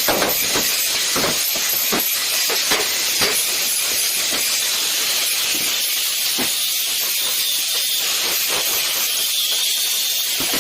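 Electric arc welding on sheet steel, a steady crackling hiss, with a few sharp metal knocks in the first few seconds and again near the middle.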